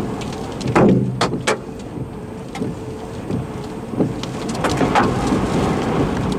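Large hail, about golf-ball size, striking the body and windshield of a vehicle, heard from inside the cabin. Irregular sharp knocks sound over a steady rush of rain, with the heaviest cluster about a second in.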